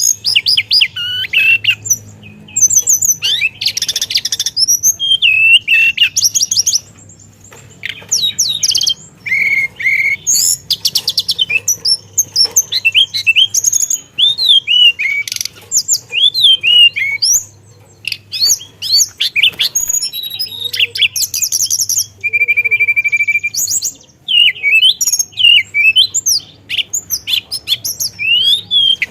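A hill blue flycatcher (tledekan) singing non-stop in a rolling song of quick, varied phrases: fast trills, sweeping whistles and mimicked fill-in notes. About three quarters of the way through it holds one steady note.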